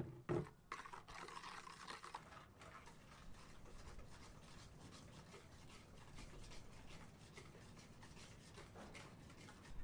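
Soft rustling and scratching with many small clicks and taps, after a sharp knock at the start.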